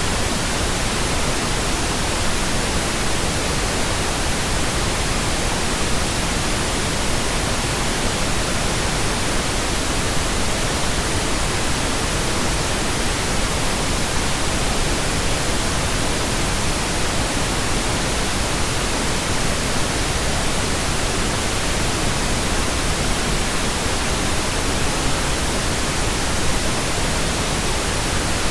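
Steady, continuous pink noise, computer-generated: an even hiss spread across the whole range, unchanging throughout.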